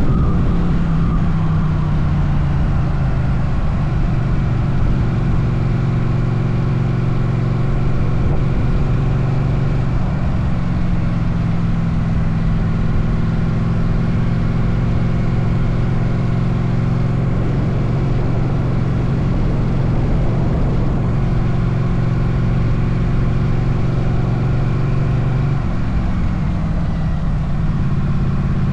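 Motorcycle engine running steadily while riding, with wind rumble on the bike-mounted microphone. The engine note shifts a little around ten seconds in and again near the end.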